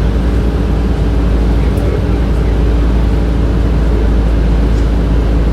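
Inside a 2007 Orion VII transit bus under way: a steady low drone from the bus's drivetrain and HVAC system, with road rumble beneath.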